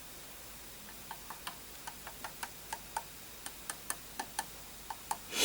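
A DIY solder pot heating, with molten solder spreading through its trough: a run of small, sharp, irregular ticks, several a second, starting about a second in.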